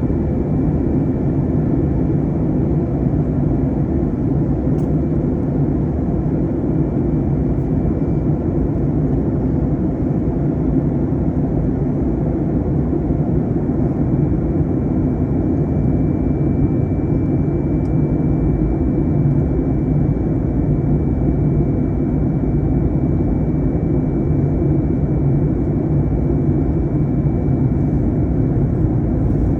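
Airbus A321 cabin noise during descent: a steady, even rumble of jet engines and airflow, with a faint high steady whine above it.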